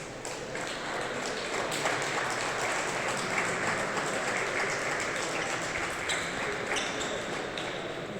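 Audience applauding, building about a second in and thinning out near the end.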